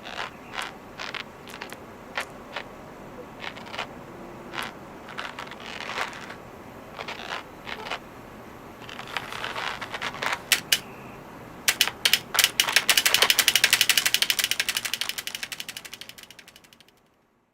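Sharp plastic clicks of computer keys being pecked by a bird, scattered at first, then a fast even run of taps near the end that fades out.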